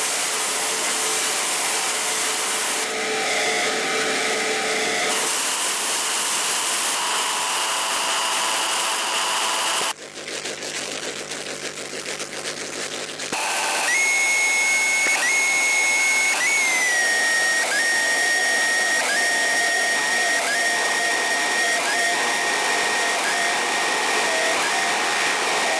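Harsh electronic noise music: a dense, loud hiss that changes texture abruptly and drops to a quieter, muffled stretch for about three seconds midway. It then returns with a held high whistling tone over the noise that restarts every second or so and steps down in pitch partway through.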